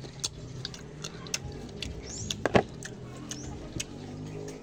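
Close-up eating sounds of crisp raw green mango being bitten and chewed: scattered wet mouth clicks, with one loud crunch about two and a half seconds in.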